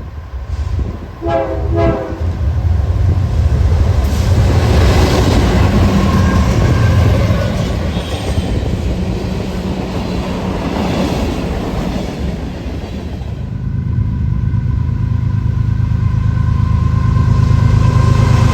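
Train passing close by, a loud steady rumble of wheels on rail with clickety-clack. A brief choppy horn sounds about a second in, and steady tones rise over the rumble near the end.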